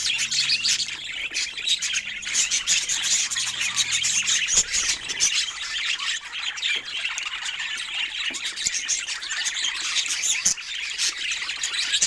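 Budgerigars chattering, a dense, unbroken stream of quick overlapping chirps and squawks from several birds.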